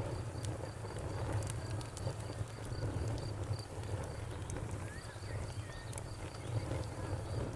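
Wood fire crackling in a fireplace: a steady low rumble of flames with scattered sharp pops, over crickets chirping in an even high pulse. A few faint bird chirps come in about five seconds in.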